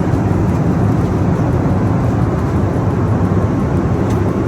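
Jet airliner noise: a loud, steady low rumble that does not change.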